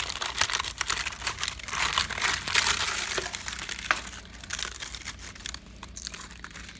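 Dense crackling and ticking from termite-infested wood, busiest in the middle: the sound of a termite infestation at work in a home's timber.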